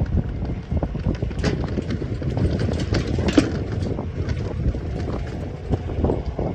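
Wind buffeting the microphone over the rumble of a small electric vehicle riding a rough dirt track, with scattered knocks and rattles as it goes over bumps and one sharper knock about halfway through.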